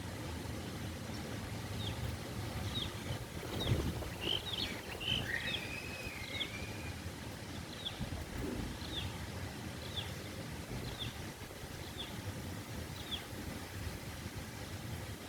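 Strong wind buffeting the microphone as a steady low rumble, with a brief stronger gust about four seconds in. Over it a bird repeats a short high chirp about once a second, and a warbling call joins in briefly around the fifth second.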